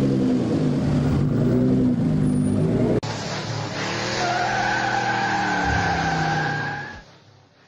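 Sports car engine running at high revs, then after a sudden cut about three seconds in, another car with a steady high-pitched tyre squeal over its engine; the sound fades out near the end.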